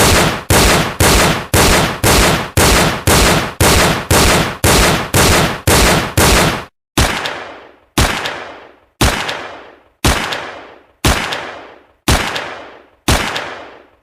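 Gunshot sound effect fired over and over: about two sharp shots a second for the first half, then about one a second with a longer ring-out after each.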